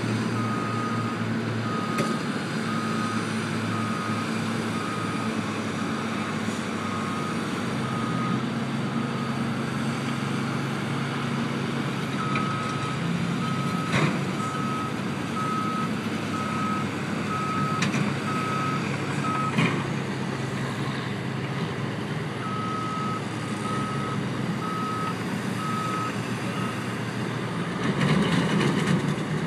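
A heavy vehicle's backup alarm beeping at about one beep a second in three runs with short pauses, over the steady hum of its diesel engine. A few sharp knocks sound in between.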